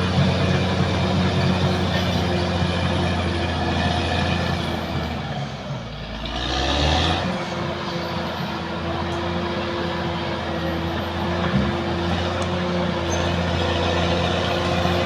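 Caterpillar D6R XL bulldozer's diesel engine running steadily under work. Its note dips about five to six seconds in, then picks up again with a short hiss.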